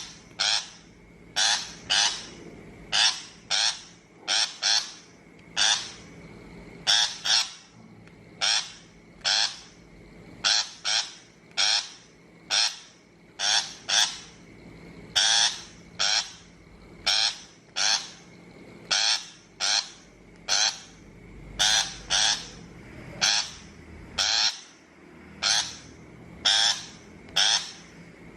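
Shrike giving harsh, rasping calls, mostly in quick pairs, repeated about once a second or a little more.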